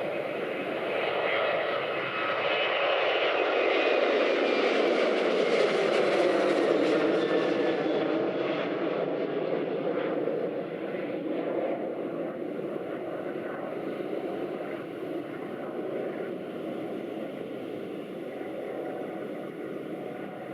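Boeing 737-800's CFM56 jet engines at takeoff power as the airliner passes and climbs away, with a falling whine over a heavy rush. The noise peaks a few seconds in, then fades slowly as it recedes.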